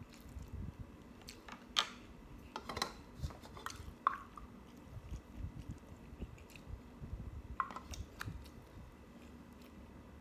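Close-miked chewing of a mouthful of food, wet and steady, with a few sharp mouth or utensil clicks scattered through.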